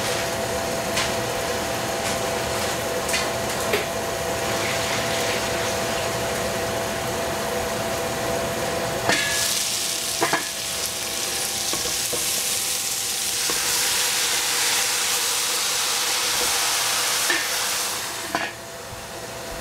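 Onions frying in a stainless steel pot, the sizzle muffled under the lid at first. It turns loud and hissing when the lid is lifted with a clank about nine seconds in, then drops back when the lid goes on again near the end. A steady hum with a faint whine runs underneath.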